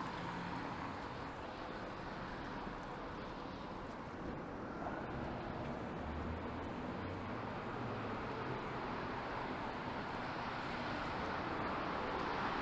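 Street traffic on a rain-wet road: a steady hiss of car tyres with engines running low, growing louder near the end as a vehicle comes closer.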